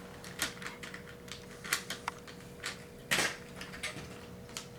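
Hard plastic parts of a Hoover FloorMate clicking and clattering as the front nozzle is fitted and its pins pushed in, with irregular clicks and one louder clack about three seconds in.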